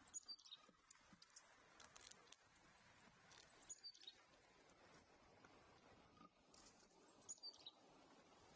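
Faint high bird chirps in three short clusters about three and a half seconds apart, over a quiet steady background hiss.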